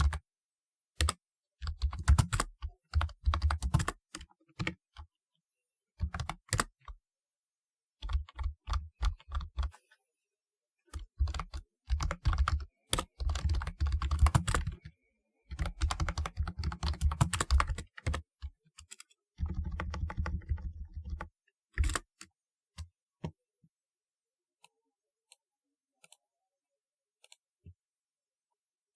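Typing on a typewriter-style computer keyboard: rapid key clicks in bursts of a few seconds with short pauses between. The typing stops about 22 seconds in, leaving only a few faint single clicks.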